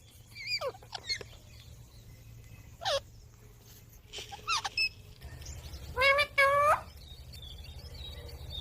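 Green parrot giving short, downward-sweeping squeaky chirps scattered through, with two louder, longer call notes about six seconds in. A steady low hum runs underneath.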